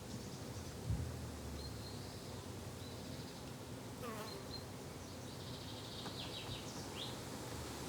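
Insects buzzing steadily, like bees and flies in a summer garden, with short high bird chirps now and then. A low thump about a second in.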